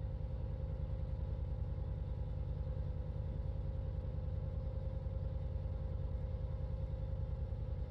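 Heavy diesel engine running steadily, a low, fast, even pulse with a steady hum above it.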